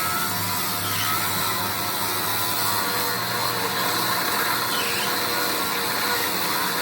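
Steady running noise of industrial shop machinery, with a constant high whine over a dense hiss and a low hum that drops away a little past halfway.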